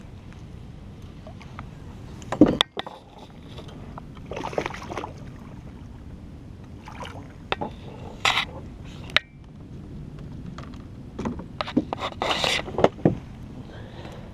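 Irregular knocks, scrapes and rubbing against a plastic fishing kayak hull (Ascend 133X) while a just-landed bass is handled, with a sharp thump about two and a half seconds in.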